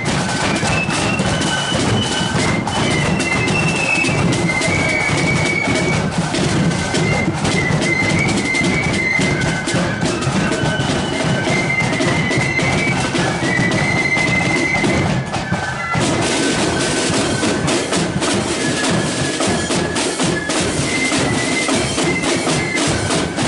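Marching flute band playing a tune: a high flute melody over snare and bass drums. There is a brief dip about two-thirds of the way through, after which the drums come through brighter.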